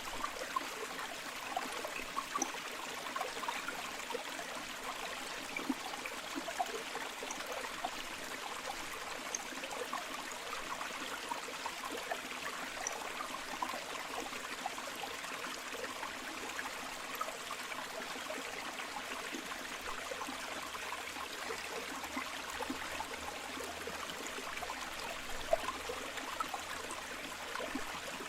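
Shallow river flowing steadily, the water trickling and splashing over stones in many small bubbling gurgles.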